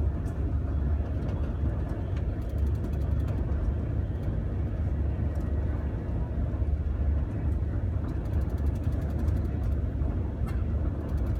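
Inside a Virgin Trains Pendolino electric train carriage while it runs along the line: a steady, deep rumble of wheels and track.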